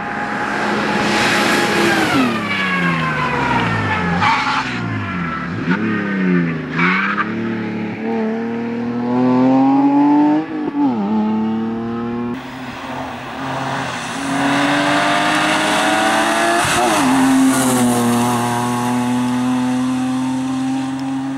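BMW E30 rally car engine revving hard and lifting off again and again, its pitch falling away for corners and climbing back as it pulls through the gears, with an abrupt jump in the sound near the middle.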